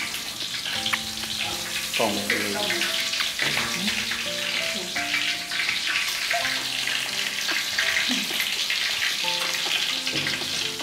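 Food sizzling as it fries in oil in a wok over a gas burner, a steady hiss, with background music of held notes over it.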